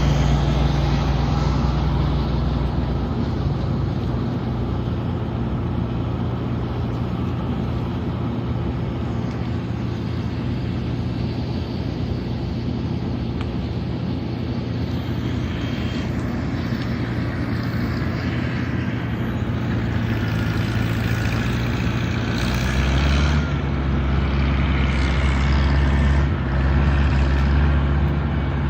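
Motor vehicle engine running steadily, with a deeper low hum coming up about two-thirds of the way through.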